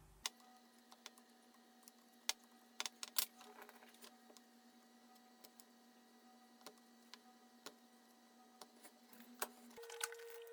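Scattered sharp clicks and snaps of small hand tools working on a circuit board over a faint steady electrical hum; the hum jumps higher about ten seconds in.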